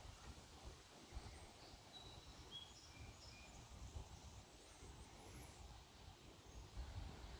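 Near silence: faint outdoor ambience with a low, uneven rumble and a few faint, short bird chirps, mostly between about one and a half and three and a half seconds in, with another around five seconds.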